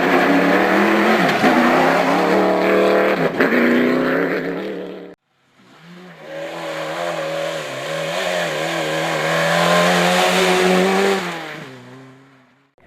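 Race car engines running hard in two separate shots. The first revs up and drops back twice as it shifts gear, then stops abruptly about five seconds in. The second builds to high revs, holds there and fades away as the car passes.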